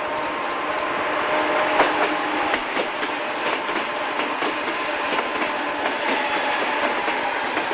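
Santa Fe freight train rolling past, a steady rumble of the train with the wheels clicking over rail joints.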